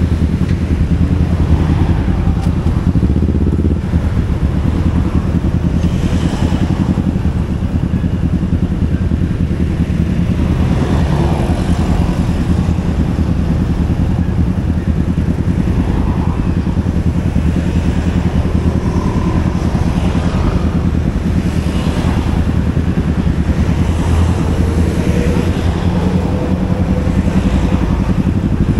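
Motor scooter being ridden along a road: its small engine and the road noise make a loud, steady low rumble.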